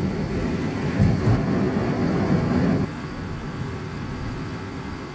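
Car road and engine noise heard inside the cabin while driving: a low rumble with a thump about a second in, dropping to a quieter steady hum about three seconds in.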